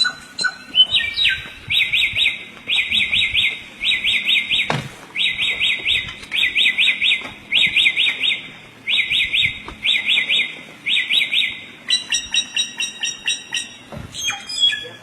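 Samyong songbird singing: a quick phrase of rising-and-falling whistled notes repeated in short bursts, over and over, with a single sharp knock about five seconds in. Near the end it switches to different, higher chirps.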